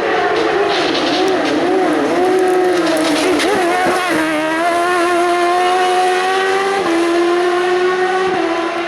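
Race car engine at high revs on a hill climb. Its note wavers up and down as the throttle is worked, then runs steadier, with sharp breaks about four and seven seconds in that are typical of gear changes.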